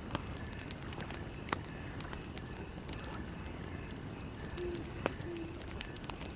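Campfire crackling, with scattered sharp pops from the burning wood, a few louder ones about a second and a half in and near five seconds, over a steady low rumble.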